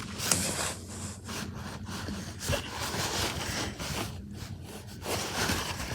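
Uneven rubbing and scraping handling noise as a picture book and the recording device are moved about close to the microphone.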